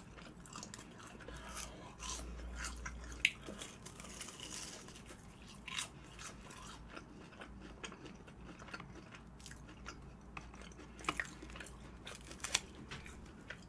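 Close-miked chewing and biting of a fried cheese ball, soft crunches and wet mouth sounds, with a few sharper crunches about three seconds in and again near the end.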